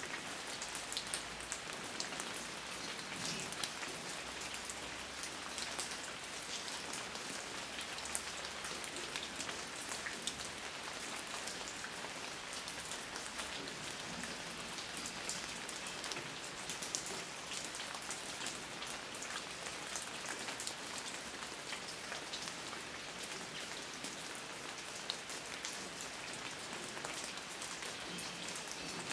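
Steady rain falling on a garden, on fallen leaves and shrubs, an even hiss dotted with many small drop ticks.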